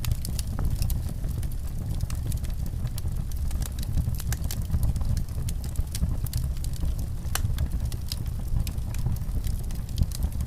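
Wood fire in a fireplace crackling: frequent small sharp pops and snaps over a steady low rumble.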